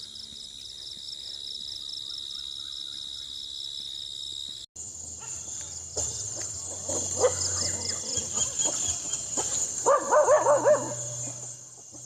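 Dense, pulsing chorus of insects such as crickets chirping, cut off abruptly just after four seconds in and resuming with a changed tone. Over it a dog vocalizes in short wavering calls, briefly around the middle and louder in a quick run of calls near the end.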